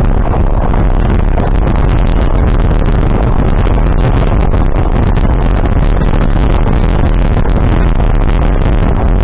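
Loud, steady vehicle noise: an engine running under way, heard as a dense rumble with no breaks.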